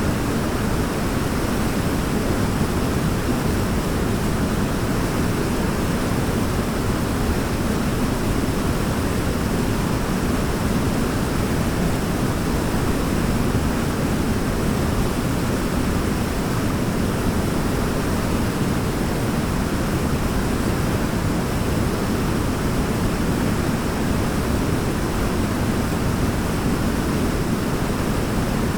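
Waterfall's steady rush of falling water: an even, unbroken noise, heaviest in the deep range, with no change in level.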